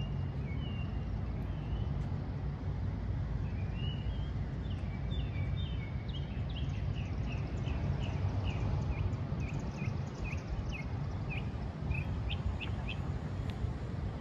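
A songbird singing a long string of short whistled notes, about two a second, over a steady low rumble.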